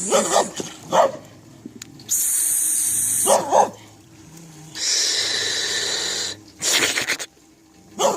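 A dog barking in short bursts, about four times, with two longer stretches of hiss-like noise between the barks.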